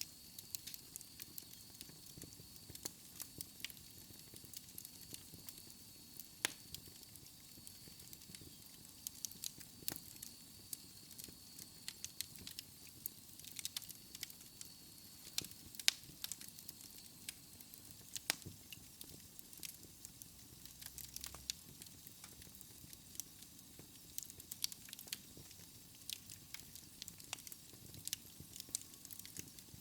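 Wood fire burning in a fireplace, crackling with irregular sharp pops and snaps over a low hiss.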